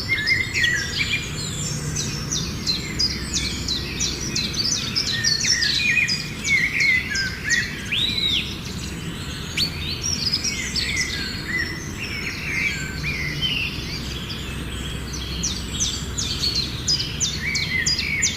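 Several birds singing and calling at once, a dense run of quick high chirps and trills with no pause, over a steady low rumbling background.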